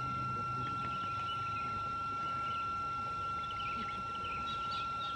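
Outdoor ambience of small birds chirping, growing busier toward the end, over a constant high-pitched whine.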